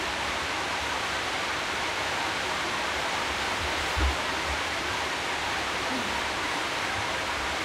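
Steady hiss of heavy rain, with a soft low thump about four seconds in.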